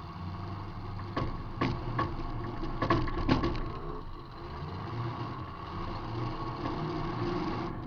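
Demolition derby car's engine running, heard from inside the car. A quick cluster of sharp metal bangs and clatter comes between about one and three and a half seconds in, the impacts of collisions.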